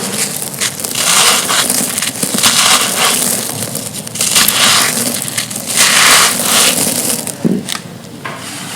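Dry, soft, stony thin slabs crunching as they are crushed and crumbled: gritty crunches swelling and fading every second or two, easing off near the end.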